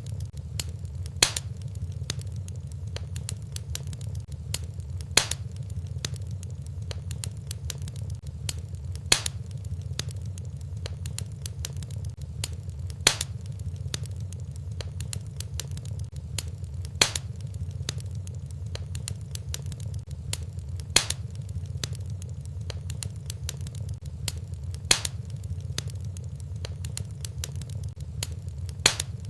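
Wood fire in a fireplace crackling over a steady low rumble, with a sharp, louder pop about every four seconds. The evenly spaced pops fit the looped fire recording the video is built from.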